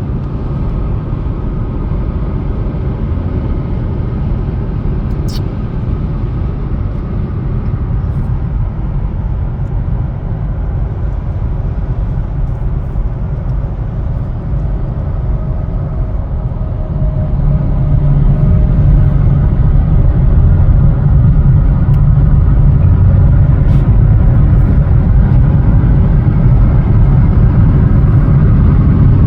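Steady rumble of a car driving at highway speed, heard from inside the cabin, growing louder about seventeen seconds in.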